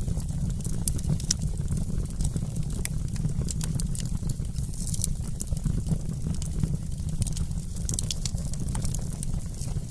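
Wood fire burning in a fireplace: a steady low rumble of flames with frequent scattered sharp crackles and pops.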